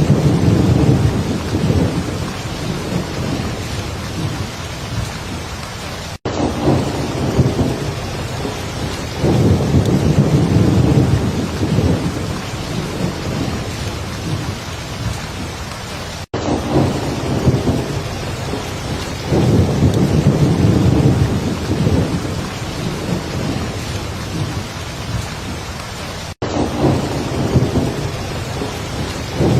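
Heavy rain falling steadily, with low thunder rumbling up about every ten seconds. A brief gap cuts the sound three times, at even ten-second spacing, so the same stretch of storm repeats as a loop.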